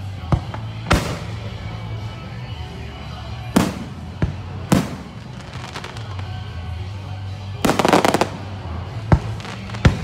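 Aerial fireworks going off: a series of sharp booms from shells bursting every second or so, with a rapid run of crackling reports a little before the end.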